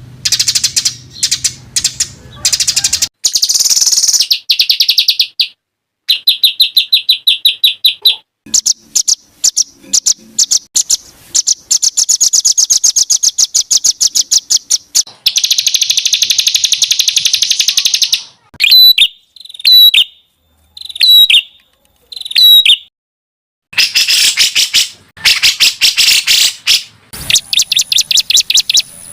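Small songbirds singing loud, rapid trills and chattering phrases, with a run of about five separate sharp, falling calls in the middle. The snippets start and stop abruptly, as a spliced compilation of songs used as master material for tutoring competition songbirds.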